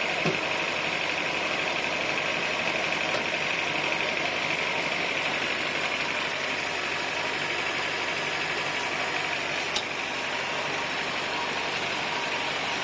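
Sawmill machinery running steadily, with a sharp click just after the start and another near the end.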